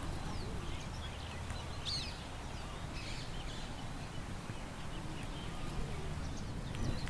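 Small birds chirping now and then in short, high calls, the clearest about two seconds in, over a steady low rumble of wind.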